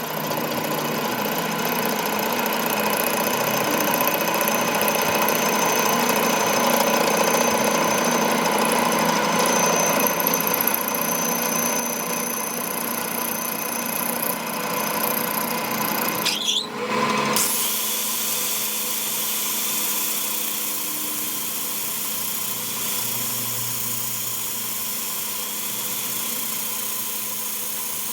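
Machine tool cutting metal with a steady, squealing whine. The sound shifts abruptly about two-thirds of the way through and carries on a little quieter.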